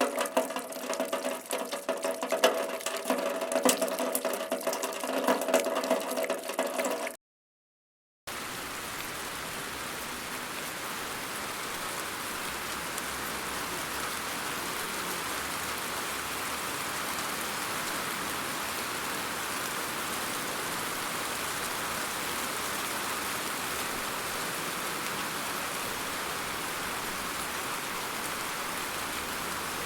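Splashing, running water with a hollow ringing tone, which cuts off abruptly about seven seconds in. After about a second of silence, steady rain starts and holds even to the end.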